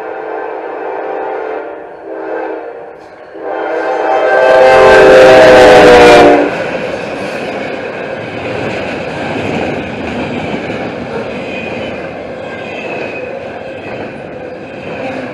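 CSX ES44AH locomotive sounding its air horn on approach, with a short break about three seconds in and then a louder blast as it passes close; the horn's pitch drops slightly as it goes by, about six seconds in. Then the steady rumble and clickety-clack of double-stack intermodal cars rolling past.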